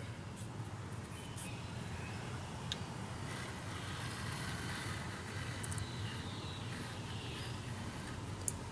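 Steady low background hum with a couple of faint clicks, one about three seconds in and one near the end.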